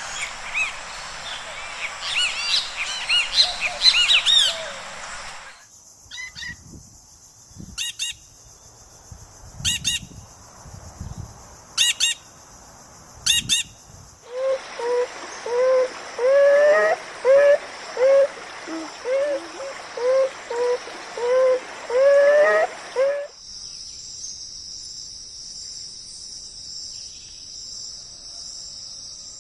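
A run of different animal recordings, one after another. First, several birds call and chirp densely. Then come widely spaced short calls, and then a long series of repeated calls. The run ends in a steady high-pitched insect-like trill.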